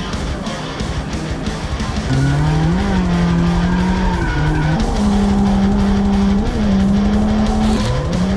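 Nissan 350Z's V6 engine held at high revs while drifting, its pitch holding, then dropping and climbing again with the throttle, with tyres skidding; music plays underneath.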